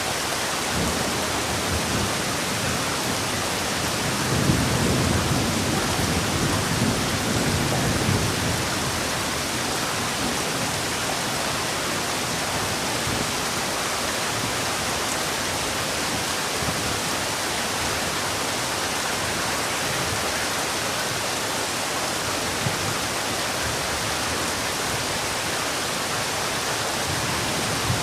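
Heavy rain falling in a steady, even hiss. About four seconds in, a low rumble swells for a few seconds, then fades back into the rain.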